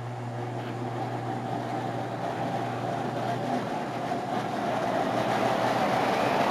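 Postwar O-gauge toy diesel locomotives pulling a long string of loaded freight cars on three-rail track: a steady hum at first, fading about three and a half seconds in, under a rolling rumble that grows steadily louder as the train gets going.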